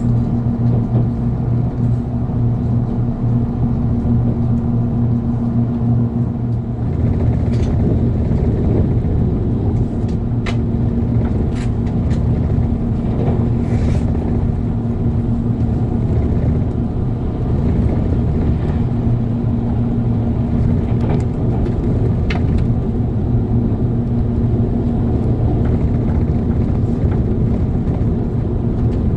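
Running noise inside a JR Kyushu 787-series electric train at speed: a steady low hum and rumble that grows fuller and louder about seven seconds in. A few sharp clicks of the wheels over the track come through in the middle.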